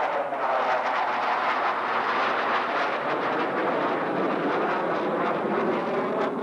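Jet noise from Blue Angels McDonnell Douglas F/A-18 Hornets flying past: a loud, steady rush of engine noise.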